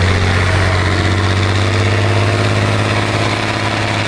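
Heavy off-road truck engine running steadily with a deep, even hum.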